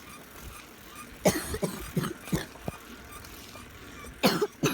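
A person coughing: a bout of short coughs about a second in, then two more close together near the end. The cougher has been fighting a cold.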